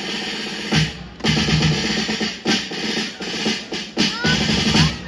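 Drums playing a loud, steady beat with heavy accented hits.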